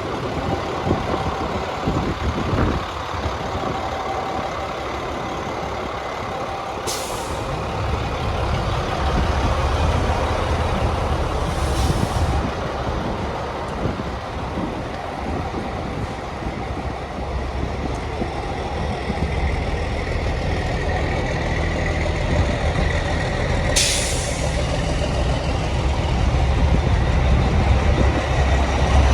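International DT466 diesel engine of a 2002 International 4300 truck running steadily, with three short, sharp hisses of air from the truck's air brake system, about seven, twelve and twenty-four seconds in.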